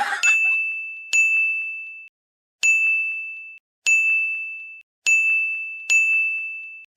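A high, bell-like ding struck about six times, roughly a second apart, each strike ringing out on the same pitch and fading away.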